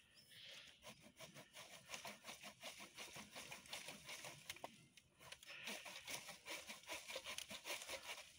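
Faint, rhythmic strokes of a hand pruning saw cutting through a live plum tree limb, pausing briefly about halfway through.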